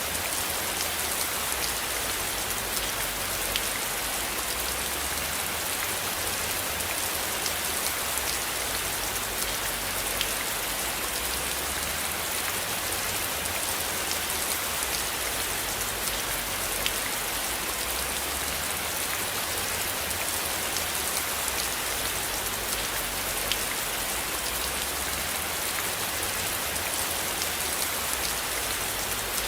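Steady rain: a dense, even hiss with scattered sharp drop taps, over a low rumble that swells and fades slowly.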